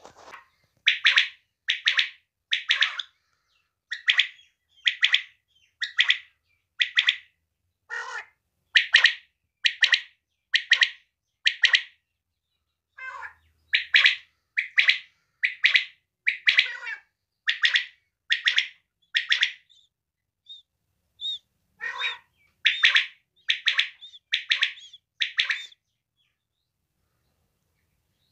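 Female quail calling: short, sharp notes repeated at about one a second in three runs with brief pauses between them.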